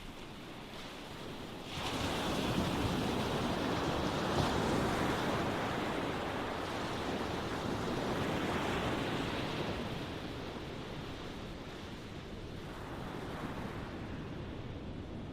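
Ocean waves: a wave breaks suddenly about two seconds in and washes in for several seconds before easing off, with a smaller swell near the end.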